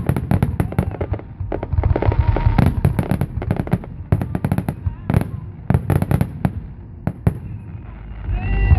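Fireworks going off in a rapid barrage: dozens of sharp bangs and crackling reports in quick, irregular succession. The barrage thins out after about seven seconds, and crowd voices rise near the end.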